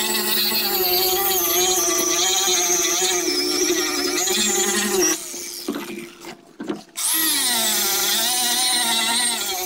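Electric pad grinder working the fiberglass of a boat hull, running with a whine whose pitch wavers as the load changes. It is shut off about five seconds in and fades, then starts up again about two seconds later.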